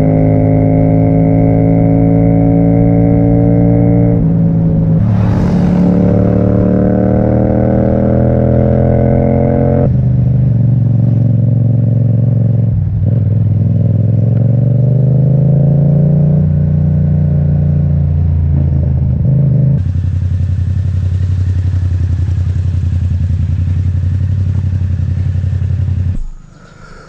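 Yamaha MT-07's parallel-twin engine through an Akrapovic exhaust, pulling through the gears. The revs climb, drop at a shift about four seconds in, and climb again. It then runs steadier with a hiss added, and the sound falls away abruptly near the end.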